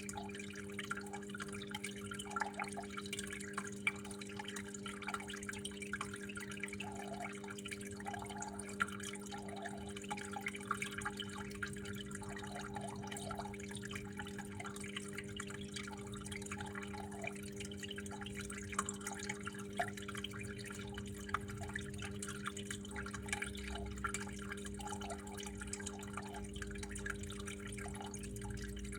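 Water flowing and dripping with many small, quick splashes, over a steady low hum.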